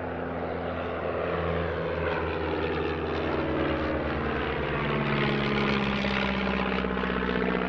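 Propeller-driven classic training aircraft of a two-ship display flying overhead, a steady engine drone whose pitch slides as they pass, loudest around five to six seconds in.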